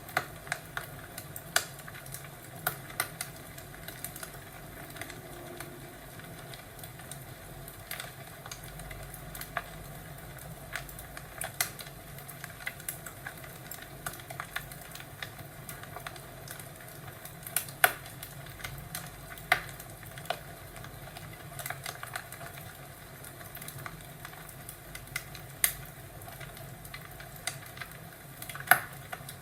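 Crackling fireplace: irregular sharp snaps and pops, a few of them loud, over a steady low background.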